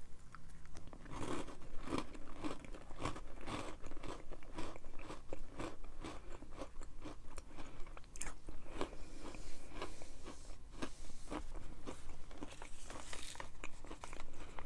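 A person biting into and chewing crunchy granola cups topped with almond butter, with irregular close crunches and crackles picked up by a clip-on microphone.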